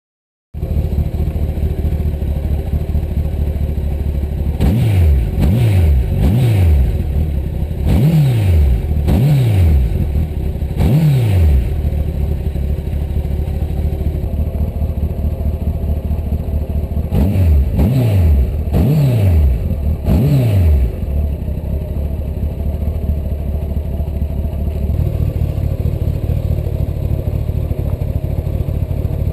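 Honda CBR1100XX's inline-four engine idling through its exhaust and blipped with the throttle again and again, each rev rising and falling quickly back to idle. A quick run of blips comes about five seconds in, three more follow over the next few seconds, and another run of four comes around the middle, then a steady idle.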